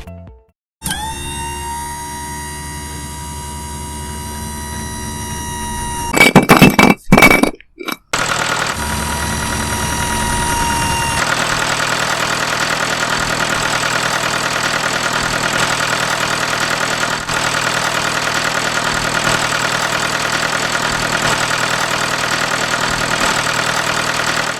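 A small motor starting suddenly and running steadily with a whine. A few loud clattering knocks come about six to eight seconds in, and then it runs on with a fast, even buzz.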